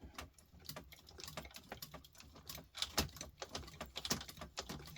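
Fast, irregular small metal clicks and scrapes from a tiny screwdriver prying and working at a brass part on a small circuit board, with a louder click about three seconds in.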